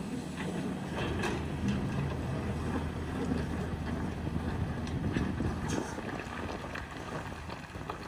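Excavator's diesel engine running steadily, with scattered knocks and clacks over it.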